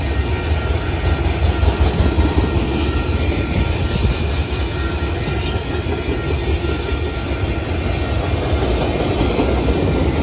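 Freight train boxcars rolling past close by: a steady rumble of steel wheels on the rail, with faint high steady wheel tones running over it.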